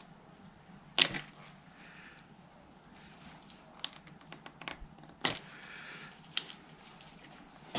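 Scattered sharp clicks and knocks of hand tools and small parts being handled, the loudest about a second in, with light rustling between them.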